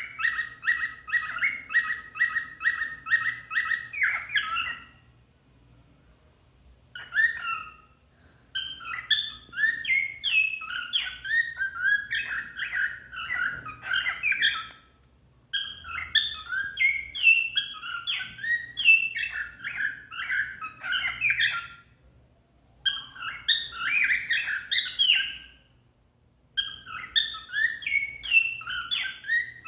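Cockatiel chirping and warbling. It opens with an even run of about two chirps a second for four seconds, then sings bouts of varied, sliding warbled notes separated by brief pauses.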